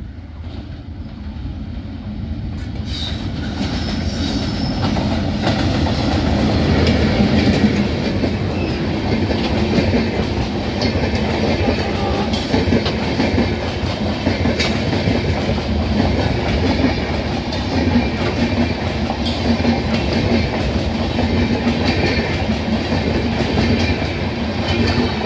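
Diesel-hauled passenger train approaching and then passing close by, its wheels clattering over the rail joints. It grows louder over the first several seconds and then stays loud as the coaches rush past.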